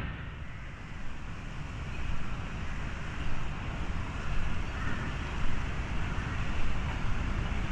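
Outdoor ambience: wind buffeting the microphone in uneven gusts over a steady low background rumble.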